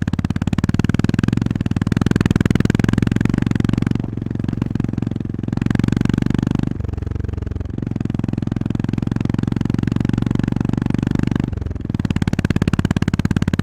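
Honda GB350S air-cooled single-cylinder engine running under way, its exhaust pulses coming fast and even. The throttle eases off about four seconds in, and the engine note changes briefly twice more, near the middle and near the end.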